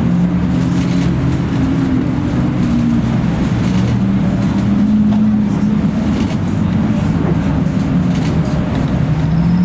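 Car engine running at low revs, a steady low drone whose pitch drifts slightly up and down.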